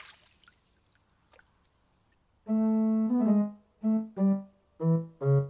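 Near silence, then from about halfway in a short keyboard phrase of six notes: one longer note followed by five short ones stepping lower in pitch.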